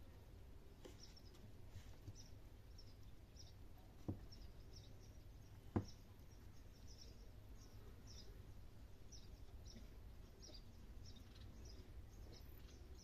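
Faint outdoor ambience: short high chirps repeating irregularly a few times a second over a low rumble. Two sharp knocks come about four seconds in and just before six seconds; the second is louder.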